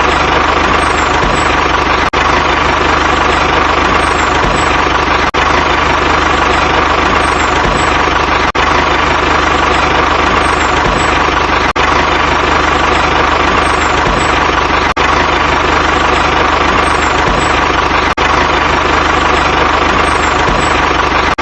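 Tractor engine idling steadily, a looped recording that repeats about every three seconds with a brief dropout at each seam.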